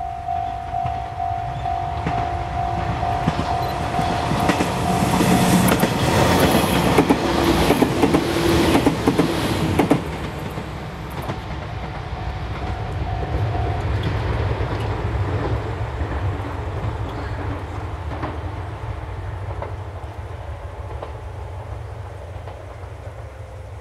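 A level-crossing bell rings in a quick repeating ding while an Izuhakone Railway 3000-series electric train passes close by, its wheels clacking over the rail joints. The clacking is loudest from about four to ten seconds in. After that, the train's low motor hum fades as it runs away, and the bell stops about two-thirds of the way through.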